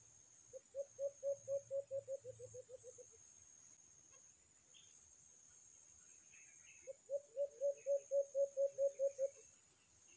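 A bird calling in two runs of rapid low hooting notes, about five a second and each run lasting two to three seconds, the first starting about half a second in and the second about seven seconds in.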